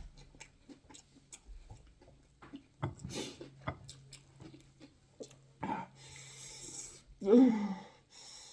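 A person chewing food close to the microphone, with many small wet, crisp clicks of the mouth and food. There are breaths through the nose about three seconds in and again around six to seven seconds, and a short voiced "mm" near the end.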